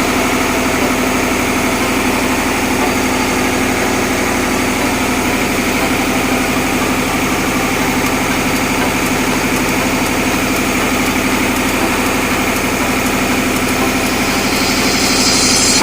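Steady running drone of diesel machinery in a tugboat engine room, with a constant hum and no change in speed. A higher hiss joins in near the end.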